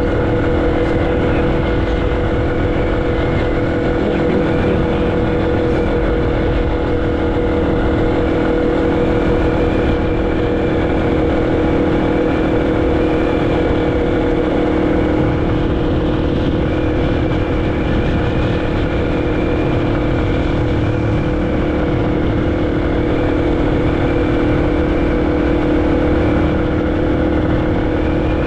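Motorcycle engine running at a steady speed under way, its note holding nearly constant, with wind rush over the microphone.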